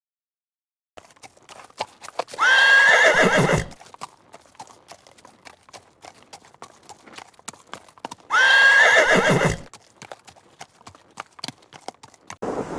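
Horse neighing twice, each whinny starting high and sliding down to a low rumble, with hoof clip-clops ticking between the calls.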